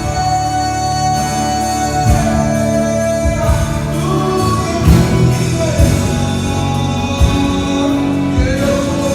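A Portuguese-language contemporary worship song performed live by a band: sung melody with long held notes over instruments, with drum hits throughout.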